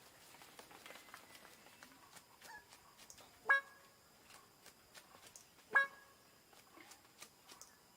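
A bird giving short, loud calls with a clear pitch, two of them a little over two seconds apart and a third at the very end, over faint scattered clicks.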